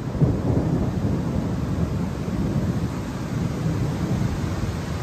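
Torrential rain pouring down, a steady rushing noise with a deep rumble underneath that swells just after the start and eases a little near the end.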